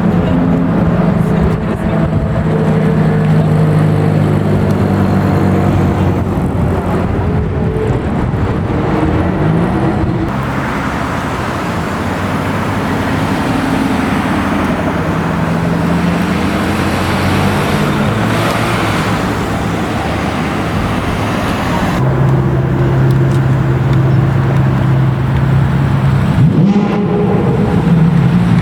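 Car engines running at low to moderate revs, their notes rising and falling as the cars move off and pass. The sound changes abruptly a few times as it switches from one car to another.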